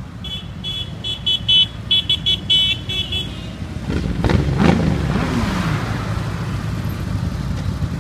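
A high-pitched vehicle horn beeping in a rapid string of short toots for about three seconds. Then a vehicle goes past close by, its engine pitch rising and falling, over steady road traffic.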